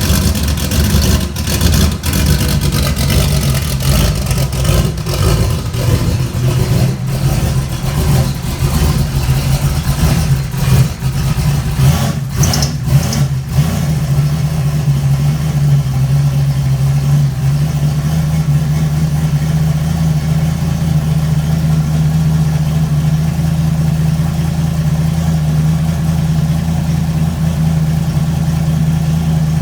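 Turbocharged Fox-body Mustang engine running cold, just after a cold start: uneven and surging with sharp blips for the first dozen seconds or so, then settling into a steady, lumpy cold idle about halfway through.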